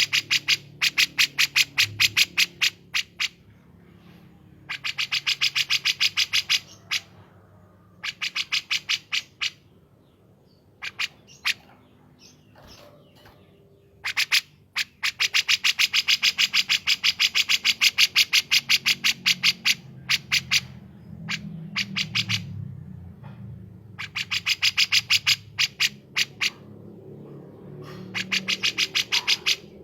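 Recorded songs of kapas tembak and cucak jenggot (grey-cheeked bulbul) birds. The song comes as repeated runs of rapid, sharp high chirps, about ten a second, each run lasting a few seconds, with softer, lower calls in the pauses between runs.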